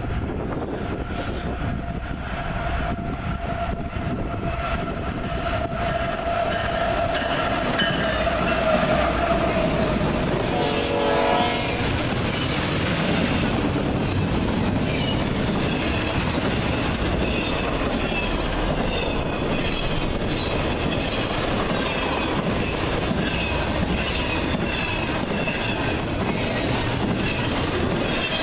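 Locomotive horn sounding steadily for about the first ten seconds as a train approaches, growing louder, then the train passing with a steady rumble and rhythmic clicking of wheels over the rail joints.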